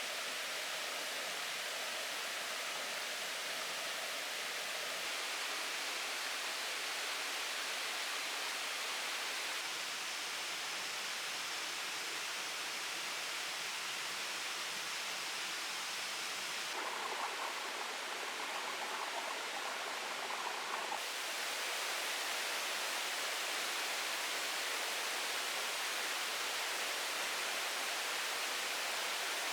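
Steady, even rushing of water. A faint pulsing high tone sits on top of it for a few seconds past the middle.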